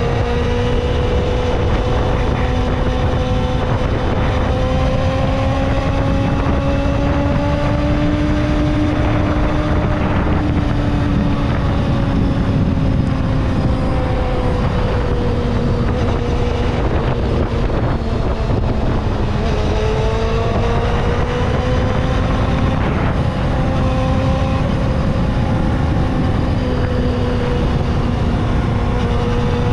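Kawasaki ZXR250's inline-four engine running at steady high revs while riding, its pitch rising and falling gently with small throttle changes. Heavy wind noise on the microphone runs underneath.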